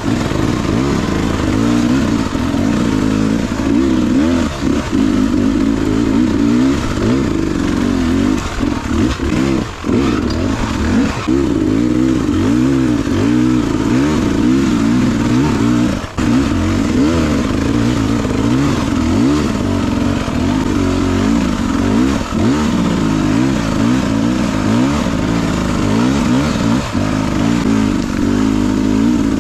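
Beta 300RR two-stroke dirt bike engine revving up and down without a break as it is ridden off-road, with a few brief knocks.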